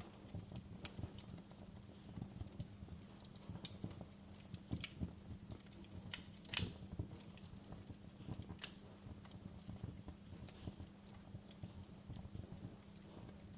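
Wood fire burning in a fireplace: irregular crackles and sharp pops over a low steady rumble, with one louder pop about six and a half seconds in.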